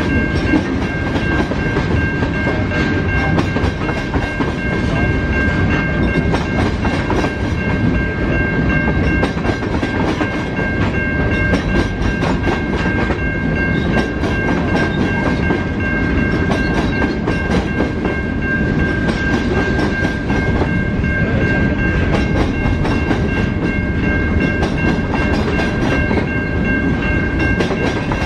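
A train rolling past close by: a steady heavy rumble of wheels on rail with faint clickety-clack, and a steady high-pitched ringing tone over it throughout.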